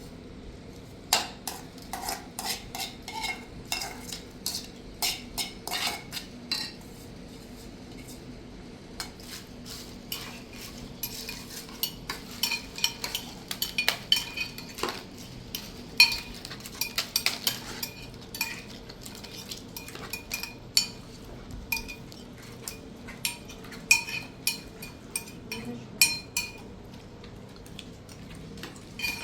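Metal cutlery clinking and scraping against dishes: many light, irregular clinks, busiest in the middle stretch.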